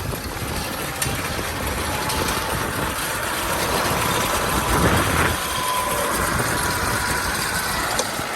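Kubota M6040 tractor's diesel engine running steadily, with a brief louder swell about five seconds in.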